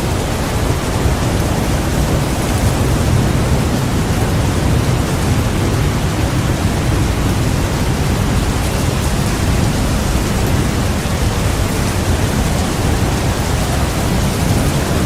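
Heavy rain falling steadily in a thunderstorm, with a low rumble of thunder and wind underneath that swells a couple of seconds in and holds.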